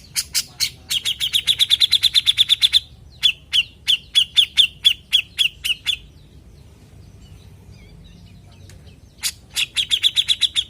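Grey-cheeked bulbul (cucak jenggot) calling in rapid bursts of repeated harsh, chattering notes. One fast run comes at about eight notes a second, then a slower run at about four a second, then a pause of about three seconds, and another fast run near the end.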